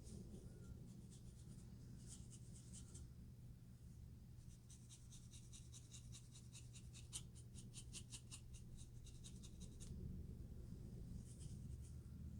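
Faint scratching strokes on a scalp through the hair, loosening dandruff flakes. A few short runs come in the first few seconds, then a quick even run of about four to five strokes a second from about a third of the way in to near the end, over a low steady hum.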